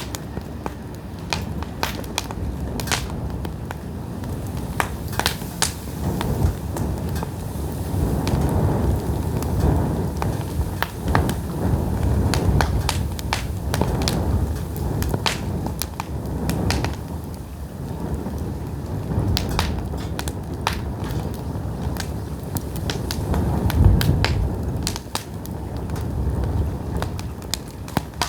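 Pine firewood fire crackling, with many sharp, irregular pops and snaps over a low rumble of flames that swells and fades.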